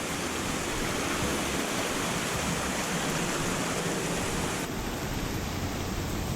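Steady, even rush of water from Tumpak Sewu Waterfall.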